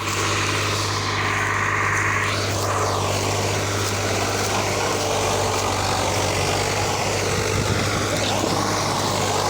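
45 HP tractor's diesel engine running at a steady speed: an even, unchanging low drone.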